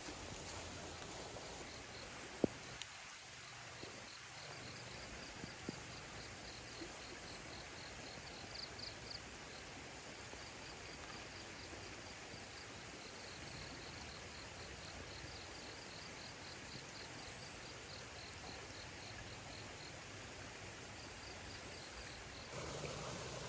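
Faint insect chirping, a rapid run of short high pulses about four a second, over a steady outdoor hiss, with a single sharp click early on. Near the end the background noise grows louder.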